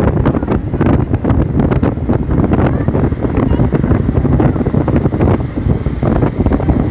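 Heavy wind buffeting the microphone: a loud, gusty rumble that flickers constantly.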